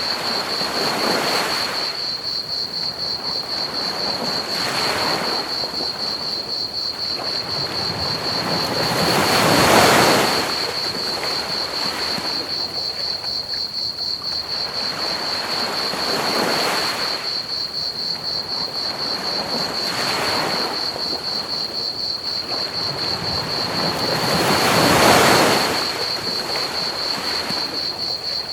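Ocean waves washing onto a beach in slow swells every few seconds, the two biggest about a third of the way in and near the end. Under them runs a steady high-pitched trill of crickets and a constant hiss of added pink noise.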